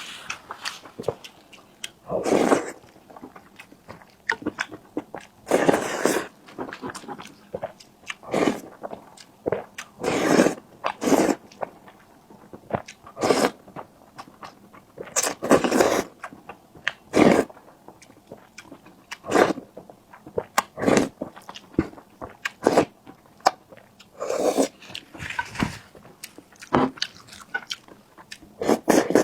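Close-miked eating sounds: a person biting and chewing food with wet mouth smacks, in irregular bursts every second or two.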